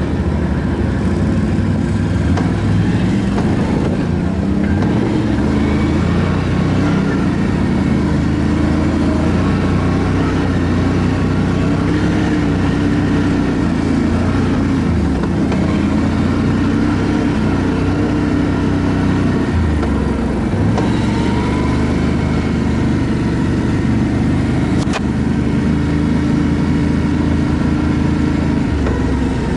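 ATV engine running while being ridden, its pitch rising and falling as the throttle changes.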